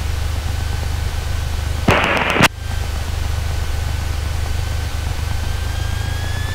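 Cessna 172 engine running steadily, heard as a low hum inside the cabin, with a thin tone that rises slightly near the end. About two seconds in, a half-second burst of radio static breaks in and cuts off with a click: a radio transmission keyed with no words.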